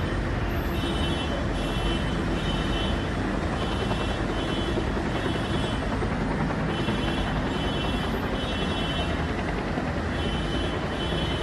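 A steady mechanical rumble like a vehicle's, with a high tone that keeps switching on and off.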